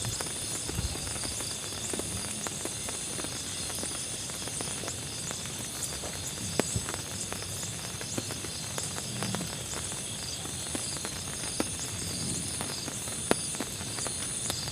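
Insects chirping in steady repeating pulses over a constant hiss, with scattered light ticks and taps.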